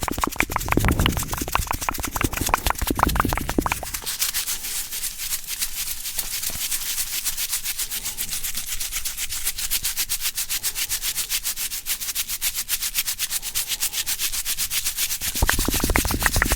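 Fast, aggressive scratching and rubbing right against a highly sensitive microphone, in quick even strokes. For about the first four seconds and again near the end the strokes are deep and thumpy. In between they turn lighter and hissier.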